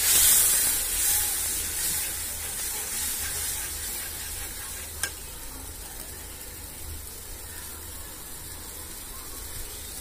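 Onion-and-spice masala sizzling in a hot wok just after water has gone in. The sizzle is loudest at first and settles to a softer, steady sizzle as a metal spatula stirs it. There is a single sharp tick about five seconds in.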